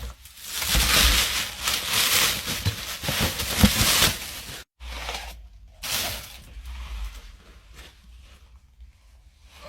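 Packaging crinkling and rustling for about three and a half seconds, cut off suddenly, then quieter, scattered handling noises.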